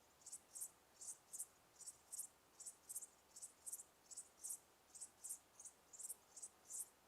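Crickets chirping: short, high chirps, often in pairs, repeating steadily over a faint hiss.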